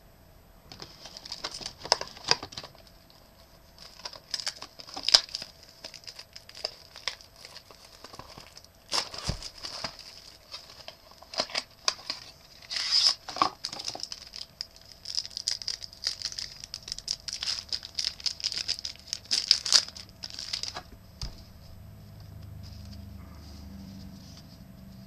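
Foil wrapper of a trading-card pack being torn open and crinkled, a dense run of sharp crackles that dies away about four-fifths of the way through.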